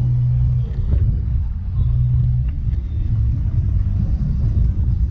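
A car engine running at idle with a low rumble.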